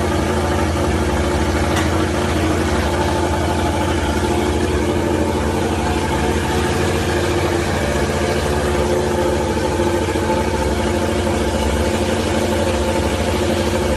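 Yamaha YZR-M1 MotoGP bike's inline-four engine idling steadily while being warmed up.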